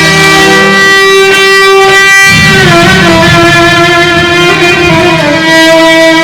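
Arabic band playing an instrumental passage with no singing: a melody of long held notes that slide from one pitch to the next, over a steady accompaniment.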